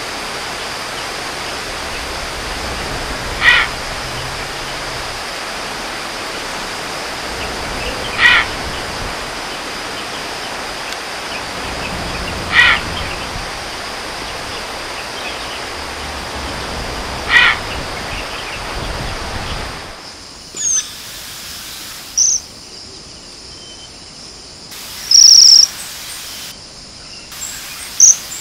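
A wild bird gives a short call four times, about every four and a half seconds, over a steady hiss. About twenty seconds in the sound changes to a different bird's high, thin chirps, with one loud short trill near the end.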